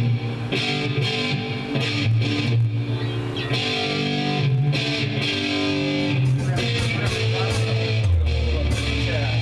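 Electric guitar with distortion playing sustained, strummed chords; low bass notes come in near the end.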